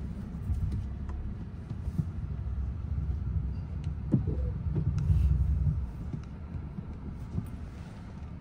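Low in-cabin rumble of a 2024 Volkswagen Atlas SUV, its 2.0-litre turbo four-cylinder engine running. The rumble swells louder about five seconds in and then settles, with a few light clicks and knocks from inside the cabin.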